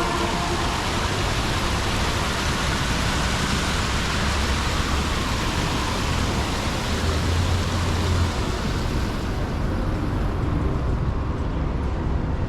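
City street traffic: a loud, even rush of passing vehicles that eases off after about nine seconds. The steady tones of a siren die away right at the start.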